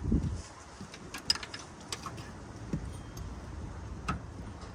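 Hand tools clicking and clinking against metal as an engine is worked on, a few scattered sharp ticks after a dull thump at the start.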